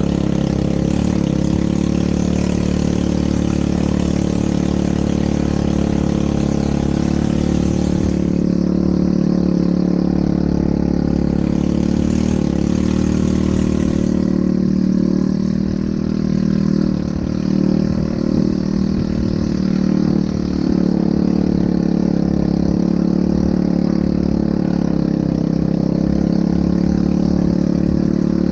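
ATV engine running steadily, loud and close, with an even, unchanging pitch.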